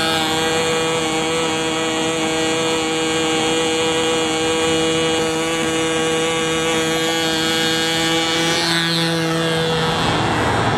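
Control-line model airplane's small two-stroke glow engine running at a steady high pitch, with the pitch wavering near the end.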